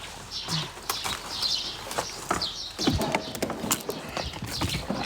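Small birds chirping several times, with scattered clicks and knocks.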